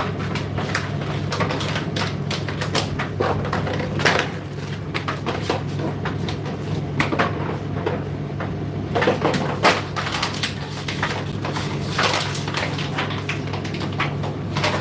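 Indesit IDC8T3 condenser tumble dryer running: a steady motor hum under irregular clicks and knocks from the load tumbling in the drum.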